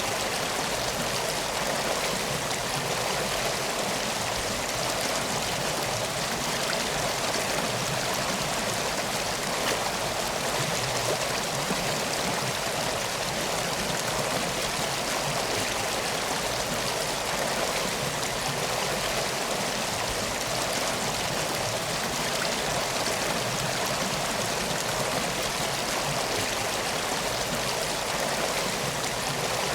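Water running steadily in a flowing stream or river, an even rush with no breaks or changes.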